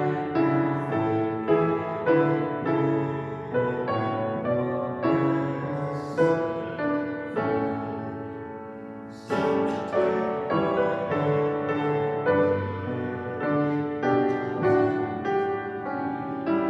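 Piano playing a slow hymn in full chords, each chord fading after it is struck. The music breaks off about nine seconds in and comes back louder with the next phrase.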